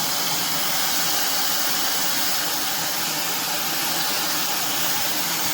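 Fentgo high-speed brushless hair dryer with a diffuser attached, blowing steadily on its cool setting: an even, constant whoosh of air.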